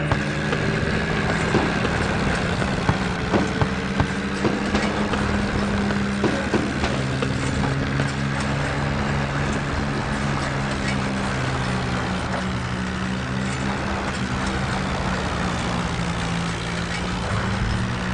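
Swaraj tractor's diesel engine running steadily, with frequent sharp knocks and rattles over it.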